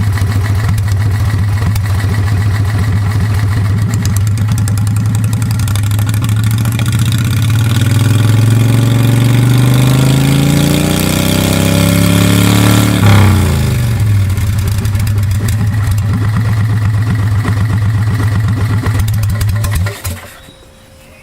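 V-twin engine of a 1992 Club Car golf cart, running through an open 2.5-inch exhaust with no muffler. It idles, revs up steadily for about six seconds, drops quickly back to idle, then stops suddenly near the end.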